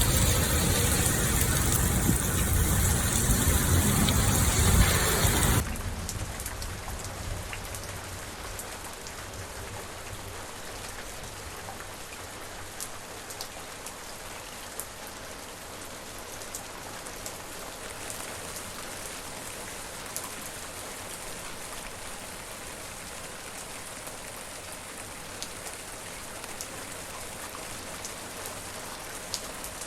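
Rain falling, loud and dense with a deep low rumble for about the first five seconds, then suddenly dropping to a softer, steady rain with scattered drops ticking.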